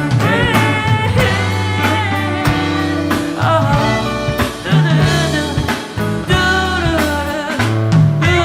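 Live band music: a sung vocal line with sliding phrases over steady drum hits and held bass notes.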